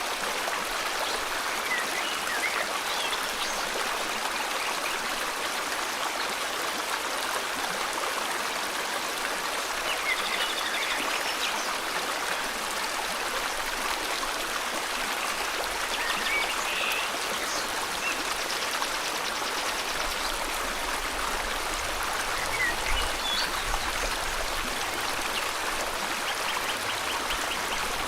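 Steady rush of a flowing river, with faint, brief bird chirps scattered over it every few seconds.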